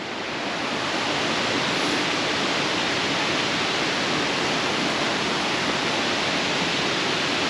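Mountain waterfall, a steady rush of falling water, swelling slightly over the first second and then holding even.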